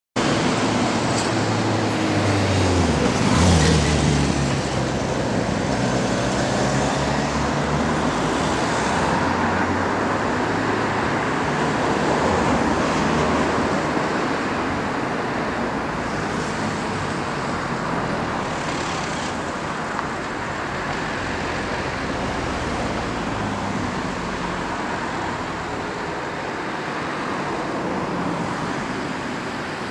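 London Underground surface-stock trains running on the tracks: a whine falls in pitch about three seconds in, then a steady rumble of wheels on rail slowly fades as a train approaches.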